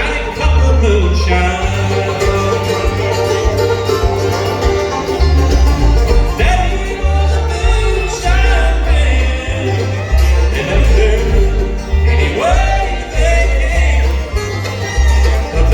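A bluegrass band playing an instrumental break, with banjo and fiddle over guitar and a steady bass line that changes note about every half second.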